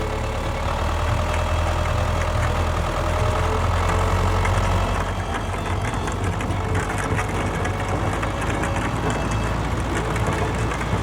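Tractor-type engine idling steadily, a continuous low rumble.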